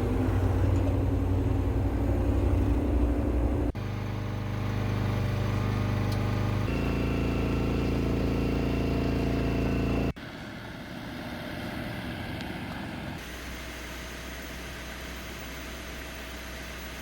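Engines running steadily through a series of cut-together clips, with abrupt changes about four and ten seconds in; the last part is quieter.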